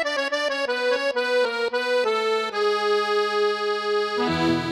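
Accordion music: a quick run of notes, then one long held note, with lower notes coming in near the end.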